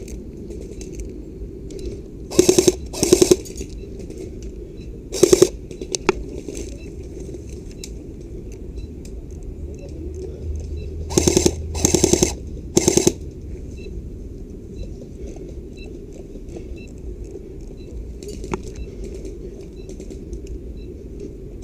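Airsoft gun firing six short rapid-fire bursts: three in the first few seconds and three more a little past the middle.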